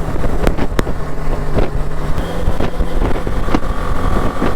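Motorcycle running at highway speed, with a steady engine hum under heavy wind noise on the microphone. A steady high tone sounds for about a second near the end.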